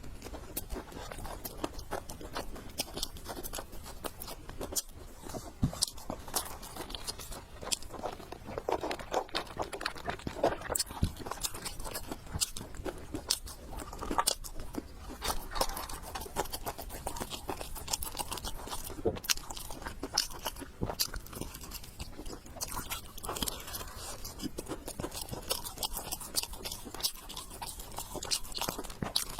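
A person chewing and biting food, with many short sharp clicks throughout.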